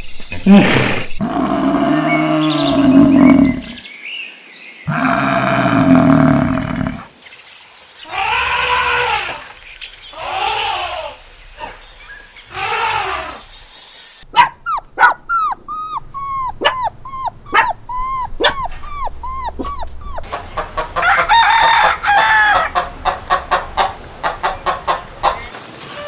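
Farm animal calls, one clip after another: several long, drawn-out arching calls in the first half, then quick runs of short repeated calls in the second half.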